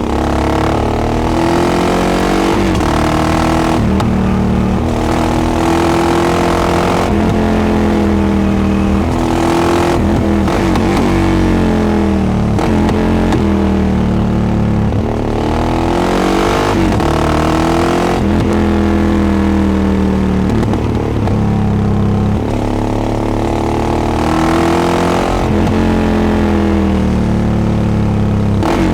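Yamaha XT660X's single-cylinder four-stroke engine, heard through a Devil carbon exhaust while riding. It repeatedly pulls up in pitch and drops at each gear change or roll-off, accelerating and backing off over and over.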